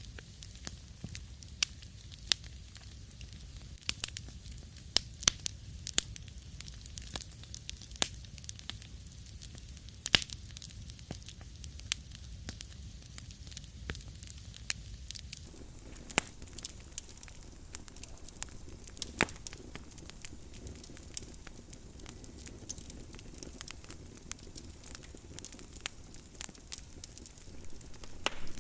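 Fire crackling in a fireplace: irregular sharp pops and snaps over a steady low rumble. About halfway through, the background grows slightly fuller.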